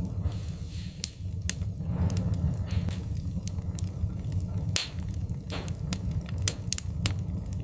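Wood fire burning in a fireplace: irregular sharp crackles and pops over a steady low rumble of the flames, with soft hissing swells.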